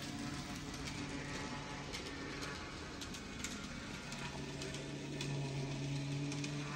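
N scale model train running around the track: a steady electric motor hum with scattered light clicks, the hum growing louder about four seconds in as the train passes closer.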